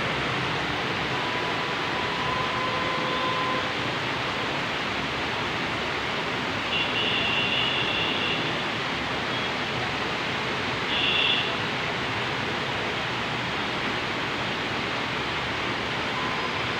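Heavy rain falling steadily, an even hiss. Twice, about seven and eleven seconds in, a short high-pitched tone sounds over it.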